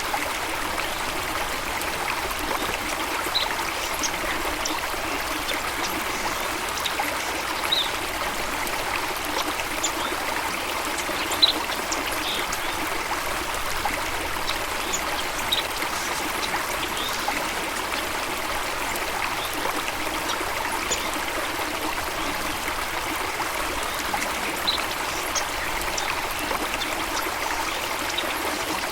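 Running water of a stream or small waterfall, a steady rush, with short high bird chirps scattered through it.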